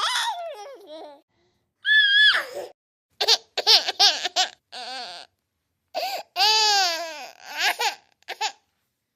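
Cartoon baby girl voice sound effects: a string of short, high-pitched baby giggles and babbles, each with a sliding, mostly falling pitch, separated by dead-silent gaps.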